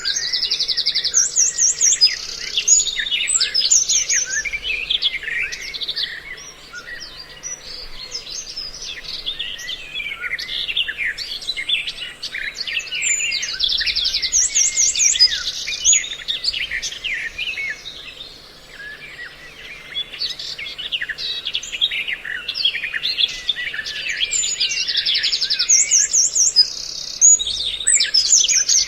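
Dense mix of songbird calls and chirps from several species, a bird-lure recording used to draw birds to traps. Rapid buzzy trills come back about every twelve seconds, with quieter spells of scattered calls between them.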